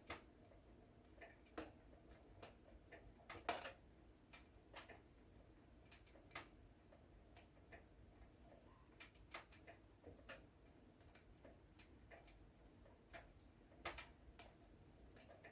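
Wood fire in a fireplace crackling: irregular sharp pops and snaps over a faint low hiss, with the loudest pop about three and a half seconds in and another cluster near the end.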